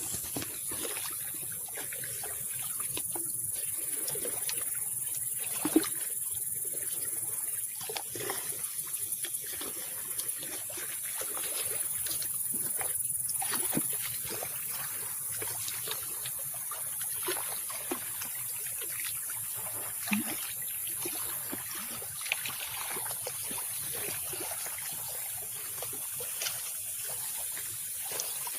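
Small lake waves lapping and trickling at the shoreline, with irregular little splashes, over a steady high-pitched hiss.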